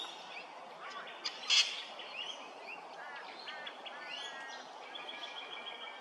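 Small birds calling: a mix of short rising chirps and quick trills, and near the end a rapid run of repeated notes. About one and a half seconds in there is one sharp, harsh, louder note.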